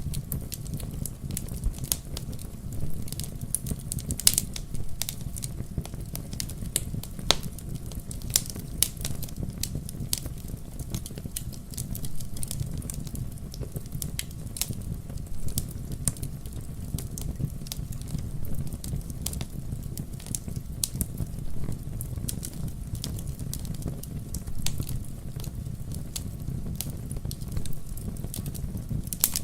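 Wood fire crackling in a fireplace: irregular sharp pops and snaps, some much louder than others, over a steady low rumble of flames.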